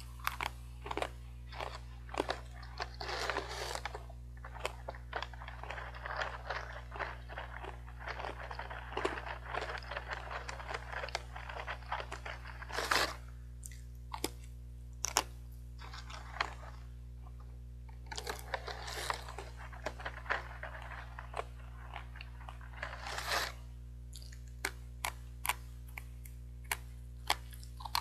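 Hard fried sweet potato sticks being bitten and chewed: sharp crunches and crackling bites in runs, with a steady low hum underneath.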